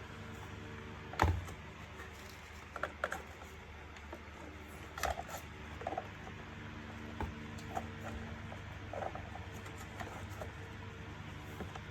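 Plastic parts of a bagless vacuum cleaner being handled and fitted together: scattered clicks and light knocks at irregular intervals, the loudest about a second in, over a steady low hum.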